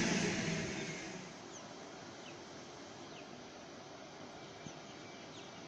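Electric passenger train's running noise dying away over the first second as it leaves the station, followed by quiet outdoor ambience with a few short, high bird chirps.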